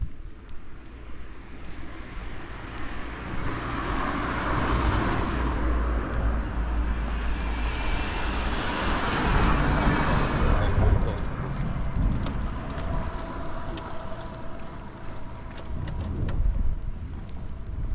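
A car passing by, its engine and tyre noise swelling over several seconds, loudest about nine to ten seconds in, then fading away.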